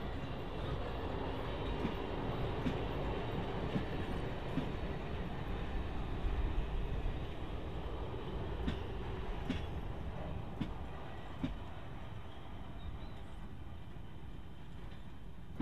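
Train of passenger carriages rolling slowly past: a steady low rumble with sharp wheel clicks, roughly one every second, fading as the last carriage moves away near the end.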